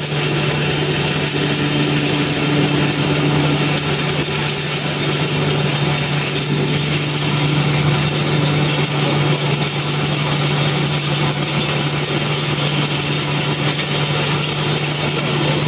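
Corn peeling and shelling machine running steadily: a constant low hum under a dense, even mechanical rush that does not change.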